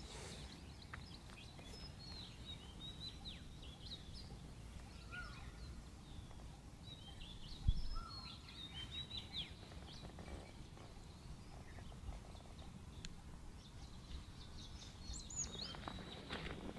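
Small wild birds chirping and calling with many short, quick notes scattered throughout, over a faint low rumble. There is a single low bump about eight seconds in.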